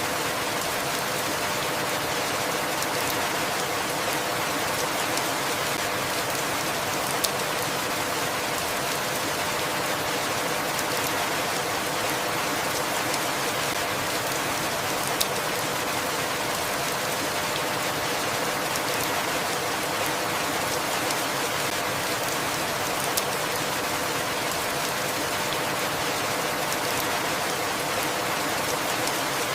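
Steady rain falling: an even hiss with a single sharp drop tick every several seconds.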